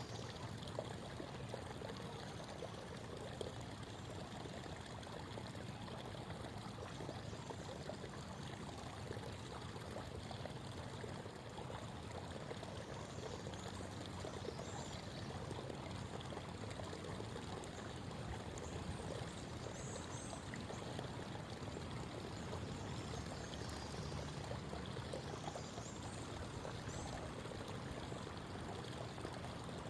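Creek water babbling steadily over rocks. Faint, brief high chirps, likely birds, come through a few times.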